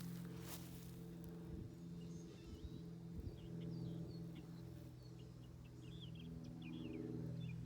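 Small birds chirping, with many short high calls from about two seconds in, over a steady low hum. There are a few soft thumps near the start.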